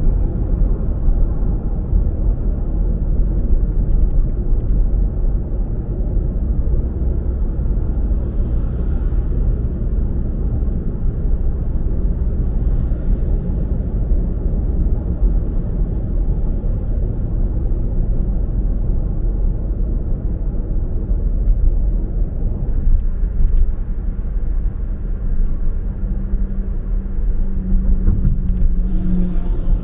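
Steady low rumble of a car driving, mostly road and engine noise, with a few faint swooshes of passing traffic and a low hum coming in near the end.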